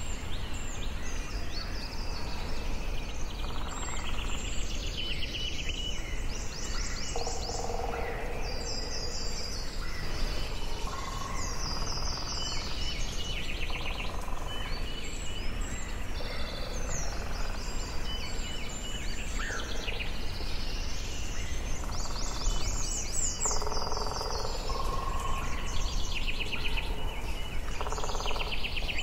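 Forest ambience of several songbirds singing at once, overlapping whistled phrases and rapid trills, over a steady low background rumble.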